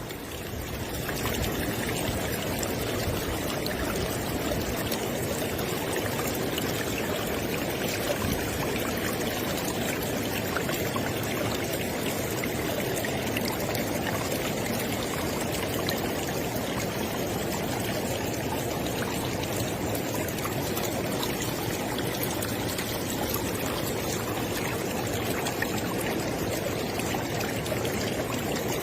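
River water flowing steadily: an even rushing and babbling that fades in out of silence within the first second and then holds level.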